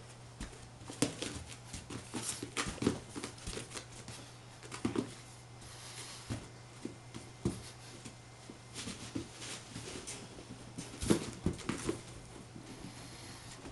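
A dog going after a balloon: irregular taps, scratches and rubbing noises, some sharp and loud.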